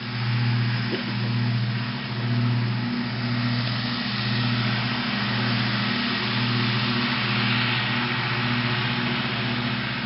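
International tractor engine running steadily, a low drone with a slight regular throb.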